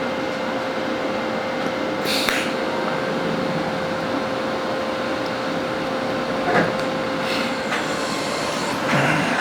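TIG welding arc on stainless steel at about 80 amps: a steady hiss with a faint constant tone under it. A few brief clicks come through it, about two seconds in and again later on.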